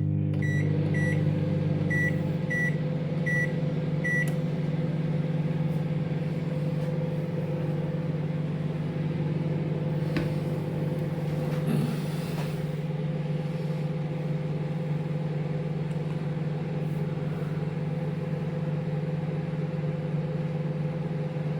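Microwave oven running with a steady hum, heating a bowl of porridge oats and water. In the first four seconds there are about seven short, high beeps from its keypad as the cooking time is set and started.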